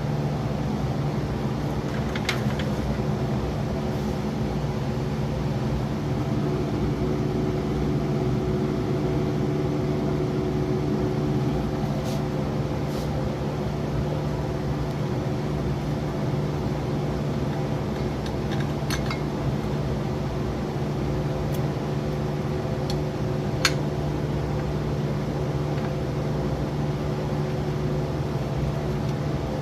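Steady mechanical hum, like a fan or motor running, with a few short sharp clicks scattered through it, the sharpest about three-quarters of the way in.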